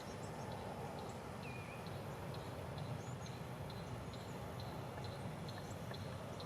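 Small birds chirping over a steady low rushing noise, one short high chirp repeating about twice a second, with a few other scattered chirps and trills.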